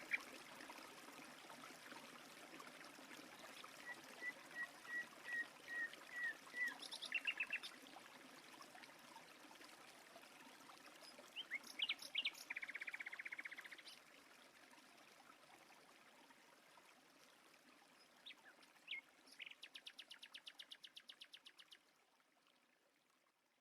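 Songbirds calling over a steady rush of flowing water: a string of short repeated notes, then several rapid trills, before the whole sound fades out near the end.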